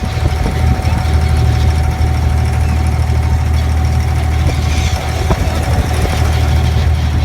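Boat engine running steadily: a constant low drone with a steady hum above it.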